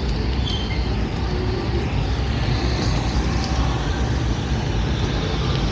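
Steady street traffic noise, a continuous rumble and hiss of vehicles running past.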